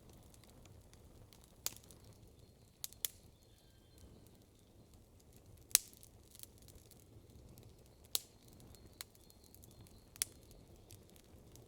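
Wood campfire crackling: a faint steady hiss of burning, broken by half a dozen sharp, irregular pops, the loudest just past the middle.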